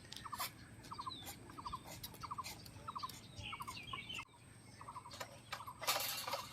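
A bird calling over and over, each call a quick run of three or four short notes, about twice a second. A brief hiss comes just before the end.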